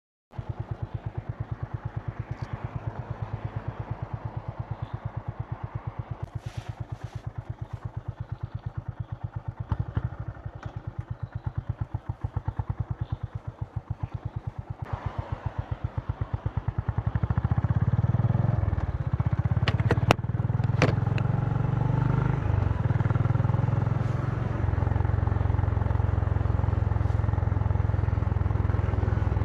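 Honda CB350's single-cylinder engine and exhaust idling with an even, pulsing beat. About seventeen seconds in it gets louder and steadier as the bike pulls away and runs at higher revs, with a couple of sharp clicks partway through.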